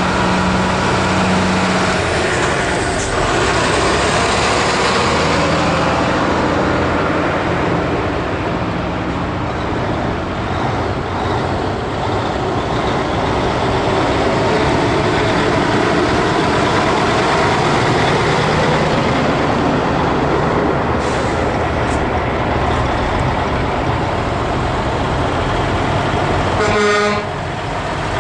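Heavy trucks driving past with their engines running and horns tooting. A short horn blast sounds near the end.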